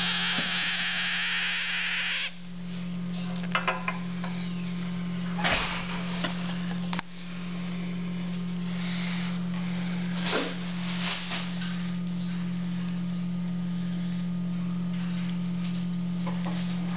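African grey parrot chicks begging during hand-feeding, with a hissing sound for the first two seconds, over a steady low hum. A few sharp clicks come about three and a half, five and a half, and ten seconds in.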